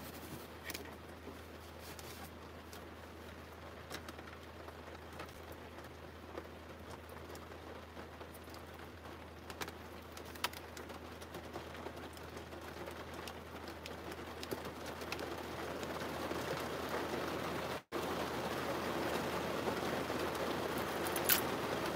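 Rain falling on the car, heard from inside the cabin as a steady patter that grows heavier over the second half, with a few scattered taps.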